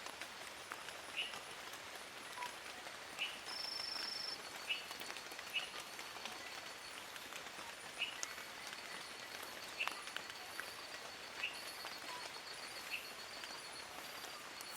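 Rain falling steadily through forest foliage, an even hiss with scattered single drops and drips popping on leaves. A short high buzz comes about four seconds in, then a high, fast ticking trill runs through the middle.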